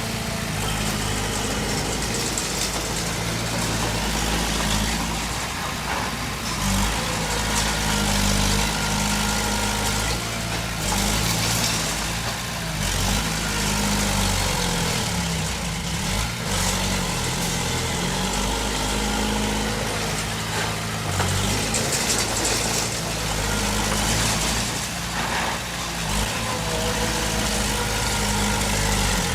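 Heavy diesel engine of earth-moving machinery running steadily, its engine note shifting up and down as it works.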